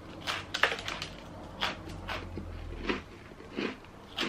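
A man biting and chewing a buttery peanut cookie close to the microphone, with short chewing noises coming about every half second.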